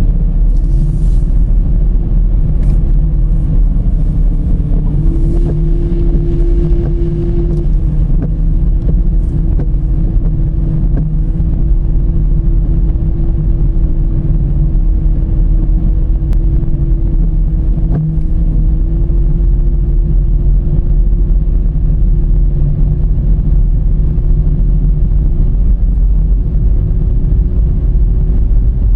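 Car cruising steadily: a constant heavy low rumble of engine and road, with a steady hum that steps up slightly a few seconds in and again about two-thirds of the way through.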